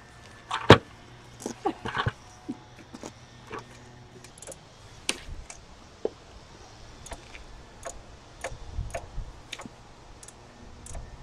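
Scattered sharp clicks and metal clinks of hand tools and brake parts being handled during a brake job, with the loudest knock under a second in.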